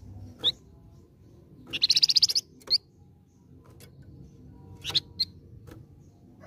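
A flamboyan (minivet) singing: a few short, sharp whistled notes and, about two seconds in, a loud rapid trill.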